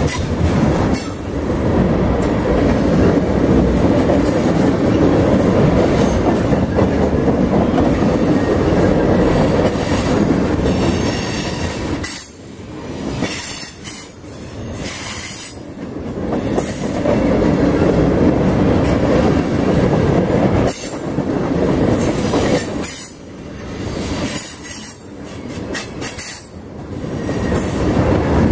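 A freight train of tank cars rolls past close by: a continuous rumble and clatter of steel wheels on the rails that swells and dips as the cars go by, with brief high-pitched wheel squeals now and then.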